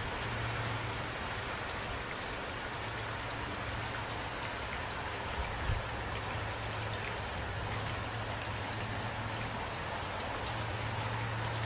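Steady rain, an even hiss with scattered ticks of single drops, over a low steady hum. A short soft thump comes a little over halfway through.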